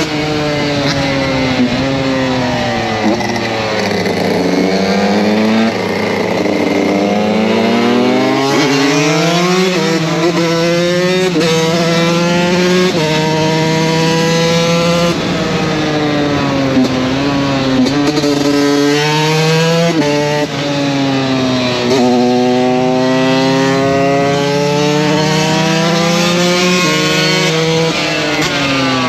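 KTM 125 SX single-cylinder two-stroke motocross engine, ridden hard: the revs climb repeatedly, jump down with each upshift, then fall away as it slows before climbing again.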